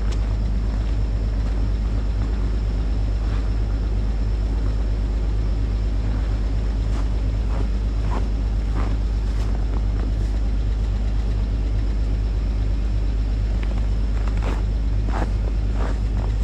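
Jeep Grand Cherokee's 4.0-litre straight-six idling steadily shortly after a −11°F cold start, with occasional faint clicks; the owner thinks it has an exhaust leak.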